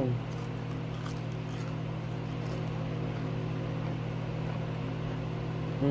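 A steady low hum runs underneath throughout, with a few faint crunches of chewing crispy fried chicken skin.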